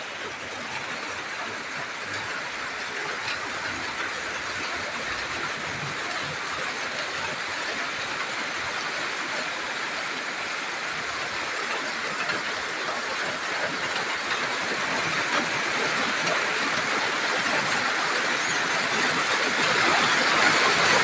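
Rain falling steadily as an even hiss, growing gradually heavier and louder toward the end.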